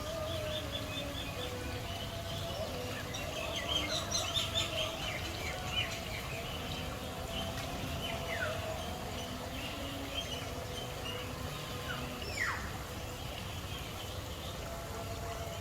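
Many birds chirping and calling together, with a quick run of chirps about four seconds in and a few sharp falling whistles later on, over a steady low background hum.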